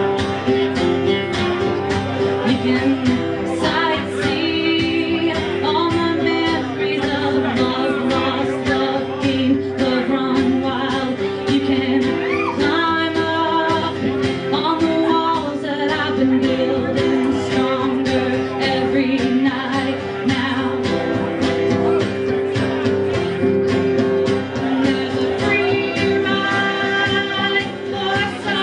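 Live song: acoustic guitar strumming steadily under a singing voice, in phrases.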